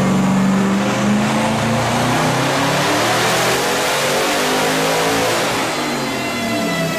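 Tuned high-performance car engine on a chassis dyno, running hard at high rpm and then backing off, its pitch falling through the last second or so as the revs drop.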